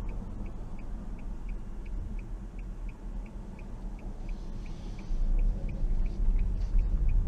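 A car's turn-signal indicator ticking evenly, about three clicks a second, over the low rumble of the car's engine; the rumble grows louder about five seconds in as the car gets moving.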